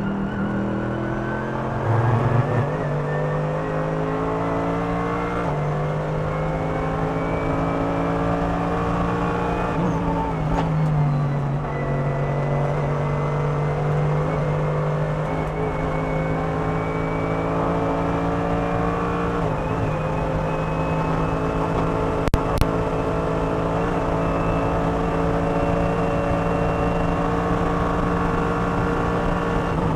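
Inside a Mercedes-AMG GT3 race car, its 6.2-litre naturally aspirated V8 is pulling hard at high revs. The pitch climbs slowly through long, flat-out runs, broken by a few brief dips at gear changes and lifts, the first about two seconds in. Two sharp clicks come a little past two-thirds of the way through.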